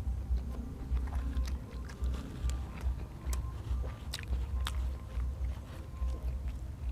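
A person chewing and biting food close to the microphone, with a pulsing low rumble from the chewing and many short clicks and crunches. Faint music plays in the background.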